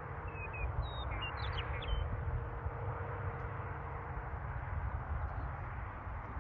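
Outdoor ambience: a steady low rumble with a bird calling a few short, quick chirps in the first two seconds.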